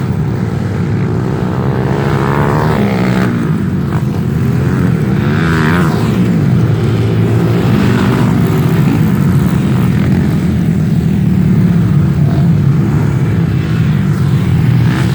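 Off-road trail motorcycle engines running, their pitch rising and falling as the riders work the throttle.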